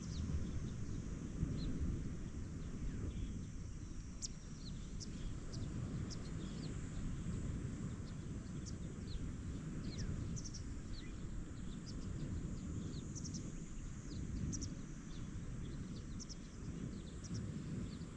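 Wind and ocean waves making a steady low rumble, with many short, high bird chirps scattered over it.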